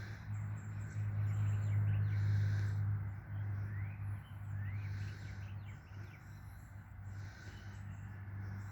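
Outdoor birdsong, with short rising chirps and insects buzzing in repeated high bursts, over a low steady hum from an unseen machine.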